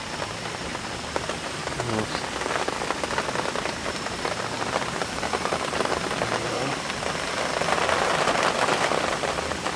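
Light rain pattering steadily in many fine drops. It grows somewhat louder near the end.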